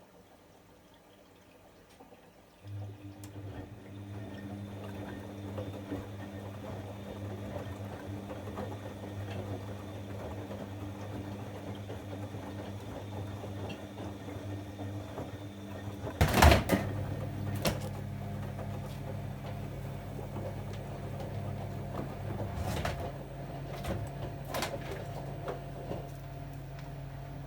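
Bosch Avantixx 7 front-loading washing machine early in a 90°C wash: water running in and a steady motor hum that starts a few seconds in. A loud knock comes a little past halfway, after which the hum changes pitch and a few light clicks follow.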